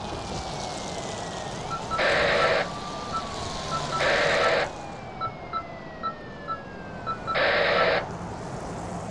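Steady hiss of rain. Over it come three short, loud blasts about two seconds apart, a run of short regular beeps, and a few slowly falling tones.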